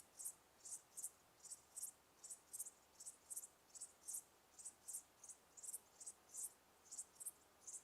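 Crickets chirping: faint, short, high chirps repeating steadily, about two or three a second, often in pairs.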